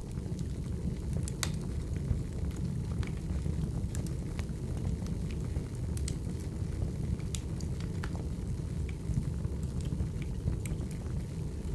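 Crackling wood fire: a steady low rumble of flames with irregular sharp pops and crackles from the burning logs.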